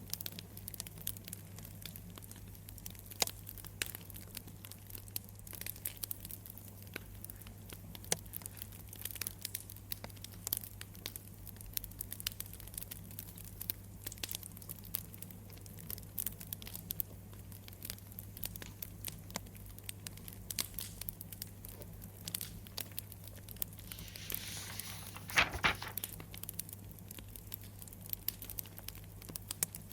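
Wood fire crackling, with frequent small irregular pops over a steady low hum; near the end comes a louder rush of hissing and one sharp pop.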